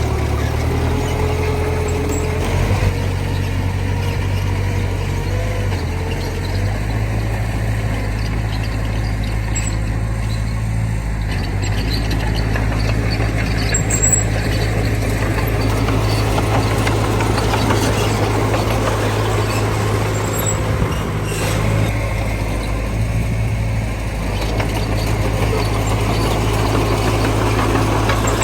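Heavy diesel engine running steadily with a low, even note that shifts about six seconds in, with a couple of brief sharp sounds in the middle.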